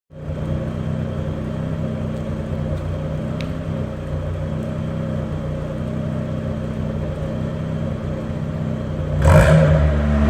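Opel Corsa B 1.2i four-cylinder petrol engine idling steadily through a straight-through exhaust with only the rear silencer. About nine seconds in it gets louder and fuller as the throttle is opened.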